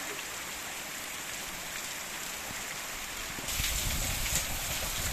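Heavy rain falling steadily as an even hiss. About three and a half seconds in it turns louder and closer, with a low rumble and rain splashing into a plastic basin.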